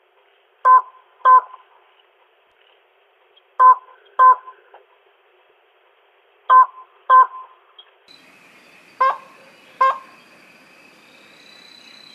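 Slaty-legged crake calling: short, sharp double notes, a pair about every three seconds, four pairs in all. About eight seconds in, a faint steady hiss with a thin high hum comes in behind the calls.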